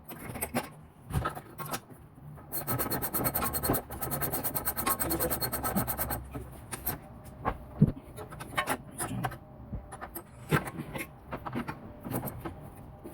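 Ratchet wrench clicking rapidly in a run of several seconds, followed by scattered clinks and knocks of hand tools and metal parts during suspension work.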